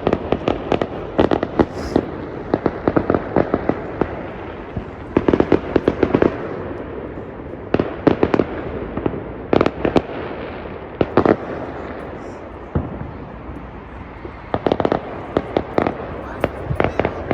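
Fireworks going off: repeated clusters of rapid bangs and crackles, with pauses of a second or two between them, over a steady background hiss.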